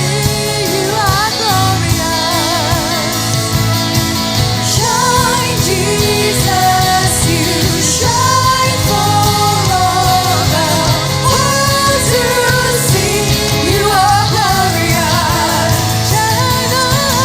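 A full band with drums playing a contemporary worship song, with a lead singer carrying a melody with vibrato over sustained chords.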